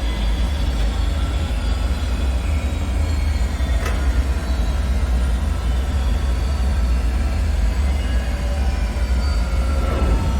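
Dark ambient drone: a deep, steady rumble with faint, thin metallic tones drifting above it, and one sharp click about four seconds in.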